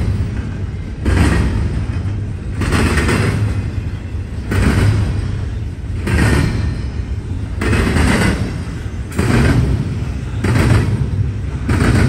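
Double-stack intermodal freight train rolling past close by. Its steel wheels clatter over the rails in a rhythmic surge about every second and a half, over a steady low rumble.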